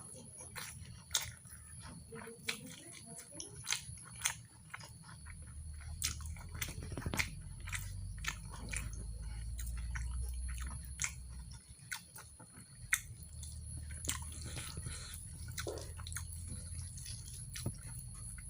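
A person chewing mutton curry and rice close to the microphone, with many short sharp mouth clicks and smacks. A low rumble comes and goes in two stretches.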